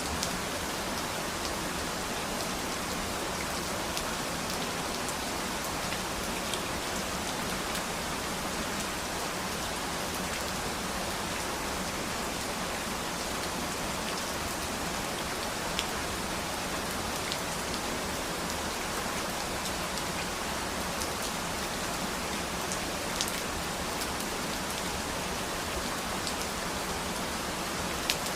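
Steady rain falling as an even hiss, with a few sharper drop ticks standing out now and then.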